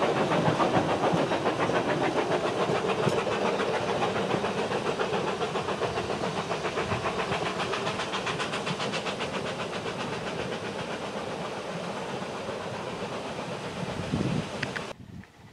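Narrow-gauge railway passenger carriages running past on the track, their wheels clacking rapidly over the rail joints, fading slowly as the train draws away. The sound cuts off suddenly near the end.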